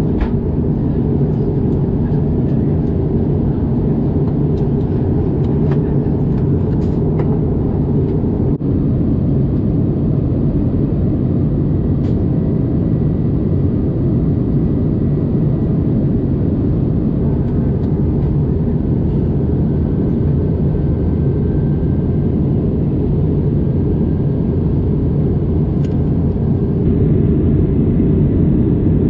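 Steady, deep rumble of airliner cabin noise inside an Airbus A321neo in flight on approach, with a few faint clicks from the cabin and a slight rise in level near the end.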